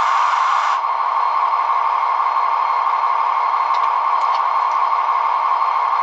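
Sound effect from the DCC sound decoder of a Roco model DB class 218 locomotive, played through the model's small speaker: a steady rushing noise with no bass, its upper part dropping away a little under a second in, and a few faint ticks about four seconds in.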